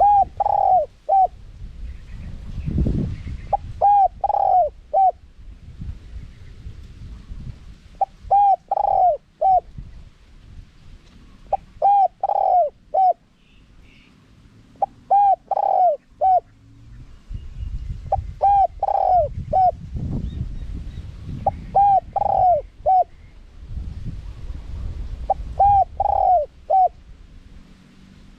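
Spotted dove cooing: about eight short phrases, each a quick note, a longer rounded coo and one or two clipped notes, repeating every three to four seconds. A low rumble runs underneath.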